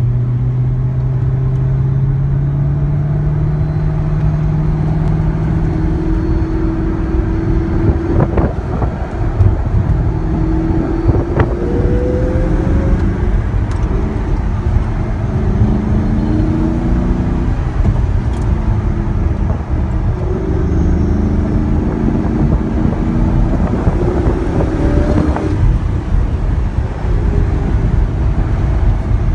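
First-generation Ford GT's supercharged V8 heard from inside the cabin while driving, with tyre and road noise. The engine runs steadily at first, then rises in pitch several times and drops back as it accelerates through the gears.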